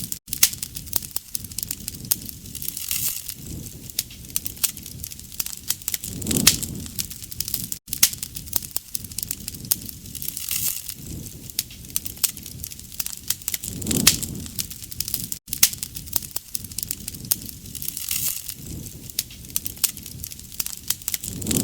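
Wood campfire burning, with dense crackling and popping over a soft hiss and low rushing swells every few seconds. The sound breaks off for an instant about every seven or eight seconds, like a short recording played on a loop.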